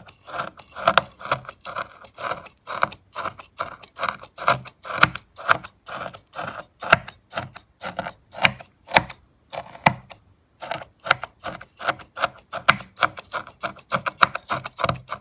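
A utility knife blade scraping shavings off a bar of Cow Brand milk soap in quick, repeated strokes, about three a second, with a short pause about ten seconds in.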